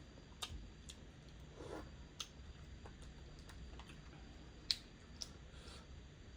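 Scattered sharp clicks and cracks of mud crab shell being broken apart and picked at while eating, the loudest about three-quarters of the way through.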